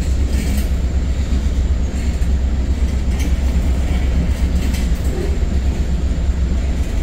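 Freight train tank cars rolling past on steel rails, a steady low rumble of wheels with a few faint clicks.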